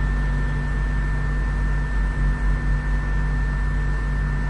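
Steady industrial machinery hum: a deep rumble under a constant high-pitched whine and fainter steady tones, with the rumble swelling briefly a couple of seconds in.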